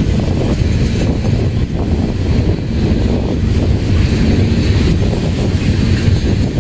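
Freight train of tank cars rolling past: a steady low rumble of steel wheels on rail.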